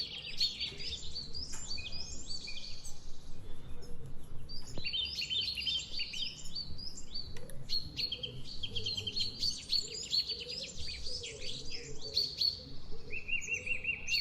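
Several songbirds chirping and calling over one another in a busy backyard chorus, with a quick trill of repeated notes near the end.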